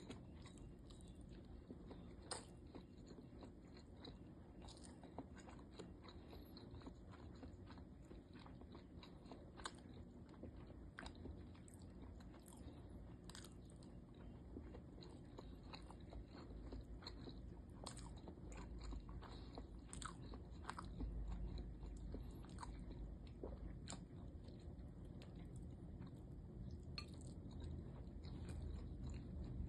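Close-miked chewing and mouth sounds of a person eating siomai (steamed dumplings): irregular small wet clicks and smacks over a low steady hum, a little louder near the end.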